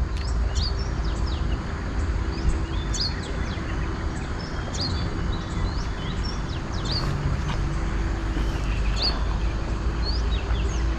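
Small birds chirping: short, quick high calls, one or two a second, over a steady low hum.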